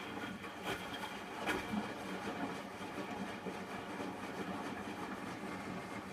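Hotpoint washing machine running mid-cycle: a steady motor hum with two short knocks in the first two seconds.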